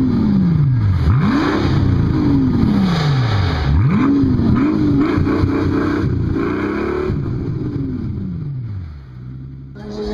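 Car engine being revved again and again, each rev rising quickly and sinking back slowly. It holds high revs for a couple of seconds midway and drops back near the end.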